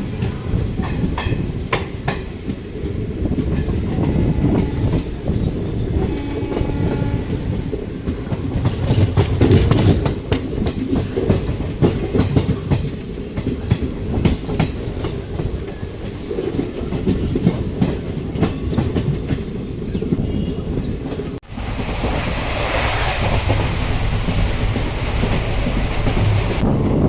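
Passenger train running on the rails: a heavy, steady rumble with wheels clicking over the track. About 21 s in the sound briefly drops out and comes back with more rushing hiss.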